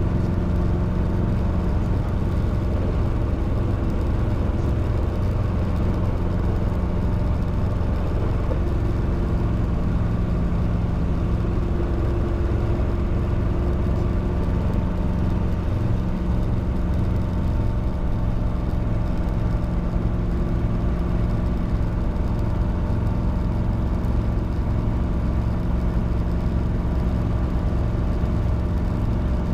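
Robinson R22 helicopter's four-cylinder Lycoming piston engine and two-bladed rotor running steadily, a constant loud drone with a fine rapid pulsing in its low end.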